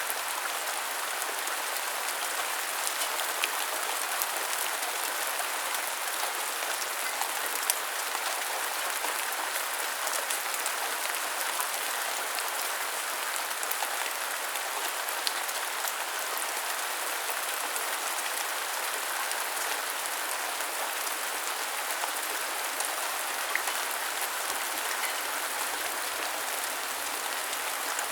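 Steady rain falling, an even hiss with scattered sharper ticks of individual drops striking.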